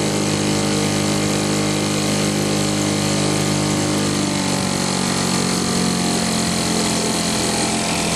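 Two-stroke British Seagull outboard motor running steadily under way; its note shifts a little about halfway through.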